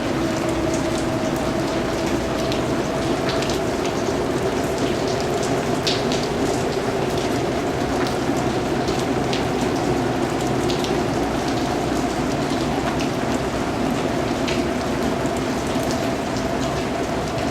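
Steady rain falling, a continuous even patter with individual drops ticking through it.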